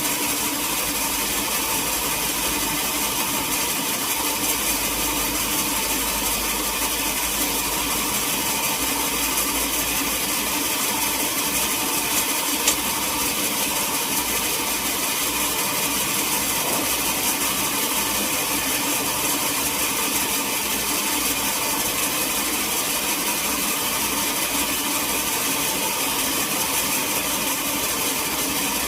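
Sawmill machinery running steadily, a continuous mechanical noise, with one sharp click about twelve and a half seconds in.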